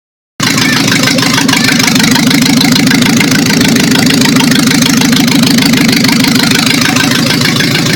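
Mazda 626 engine idling steadily, with a fast, even pulsing.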